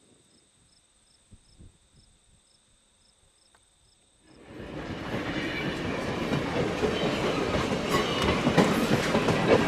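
After a quiet start with faint, steady high-pitched chirping, a train comes up loud about four and a half seconds in and rolls past close by. Its wheels click over the rail joints and squeal briefly on the rails.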